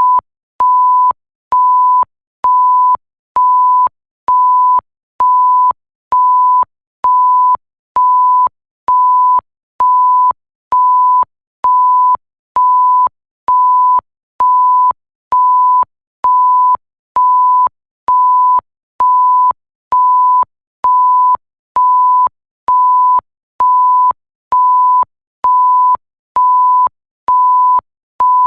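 Electronic censor bleep: a single pure high tone, repeated in short even beeps about once a second, each starting and stopping with a faint click.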